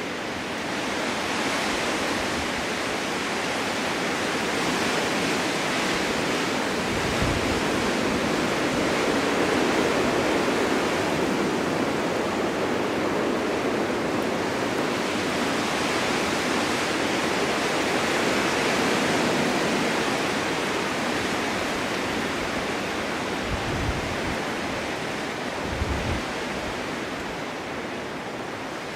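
Strong winter wind blowing steadily in gusts that swell and ease over several seconds, with a few brief low rumbles near the middle and toward the end.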